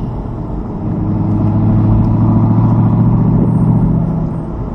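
Car engine pulling in third gear under light throttle up a hill, at a steady pitch; it grows louder about a second in and eases off near the end.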